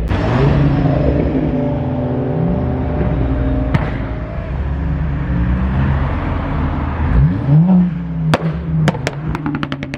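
Modified car engine running loud and revving, its pitch rising twice as it accelerates. Near the end comes a quickening run of sharp cracks.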